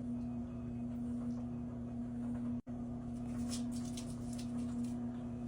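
A steady, even hum of one low pitch, with faint scratchy sounds a little past the middle.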